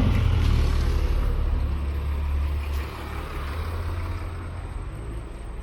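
Low motor-vehicle engine rumble that fades markedly about three seconds in, as if the vehicle moves away.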